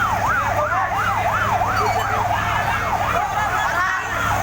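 Fire truck sirens in a fast yelp, the pitch rising and falling about three times a second. A second siren overlaps from about halfway through, over a steady low engine hum.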